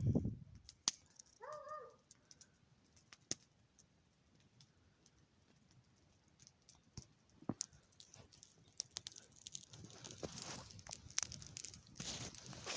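A single short wavering call about a second and a half in, then footsteps crunching in snow, growing from about eight seconds in.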